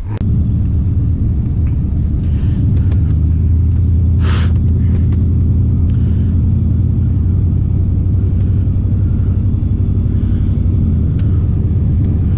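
Vehicle engine running steadily with road noise, a loud low drone heard while driving, with a brief hiss about four seconds in.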